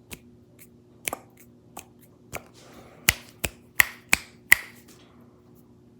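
Fingers tapping on a tabletop: sharp, separate taps, a few spaced out, then a quicker run of louder ones about halfway through.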